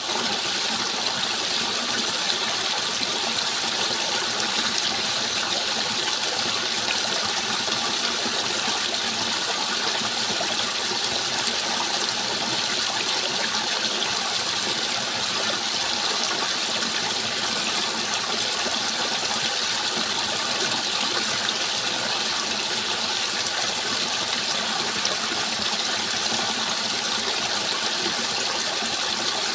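Water flowing steadily, a continuous even rush with no pauses or changes.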